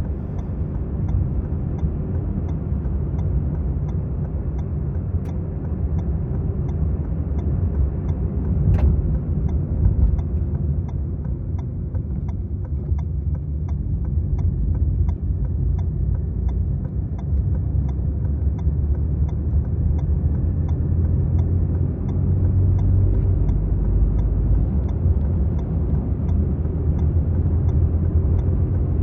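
Maruti Suzuki Swift VXi driving along: steady engine and road rumble, with faint regular ticks about twice a second.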